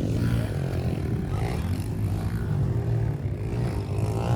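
An engine running steadily at low revs, without revving up or down.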